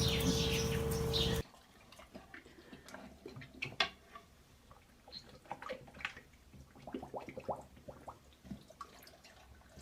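A loud steady hum cuts off abruptly about a second and a half in. Then come quiet small pops, drips and gurgles of a pet blowing bubbles into water.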